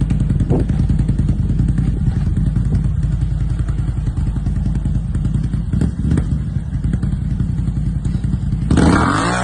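A motor vehicle's engine runs steadily, then a loud, brief crashing impact comes near the end, typical of a collision.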